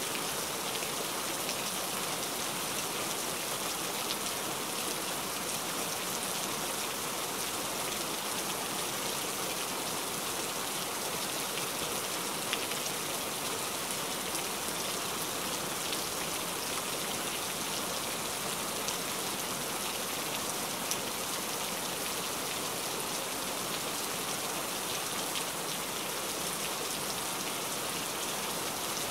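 Steady rain falling, an even hiss with a few faint drop taps now and then.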